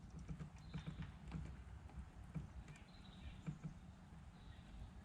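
Soft, irregular hollow knocks and small clicks on a plastic fishing kayak, as gear and the hull are handled on the water.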